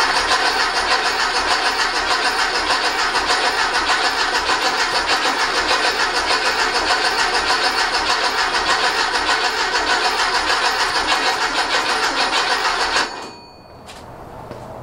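Rebuilt Volkswagen air-cooled 1835cc flat-four engine turning over on its starter in a steady, even rhythm without firing, with no fuel reaching it yet. The cranking stops abruptly about a second and a half before the end.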